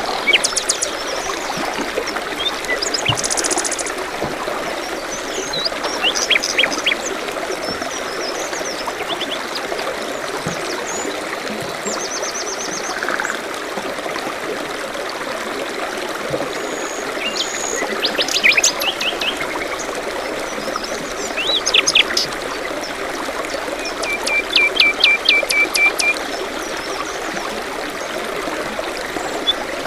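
A steady trickling stream with small songbirds chirping and trilling over it on and off, the liveliest runs of quick repeated notes in the second half.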